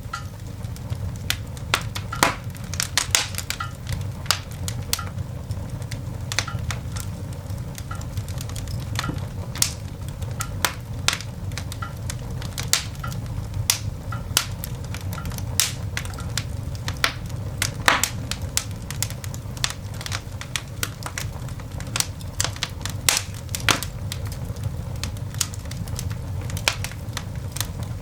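Coal fire in a cast iron dog grate crackling and popping: irregular sharp snaps, several a second, over a steady low rumble.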